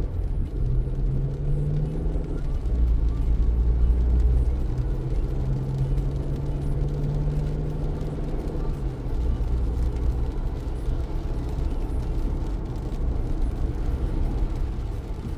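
Car driving in the rain: a low rumble of engine and tyres on wet road, with a steady hum that swells about three seconds in and fades out about nine seconds in. A faint hiss of rain and spray lies above it.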